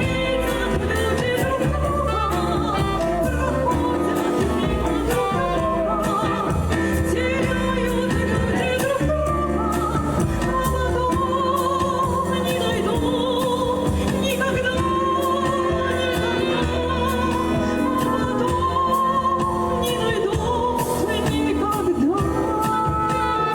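A ballad sung with vibrato in long held notes over instrumental backing.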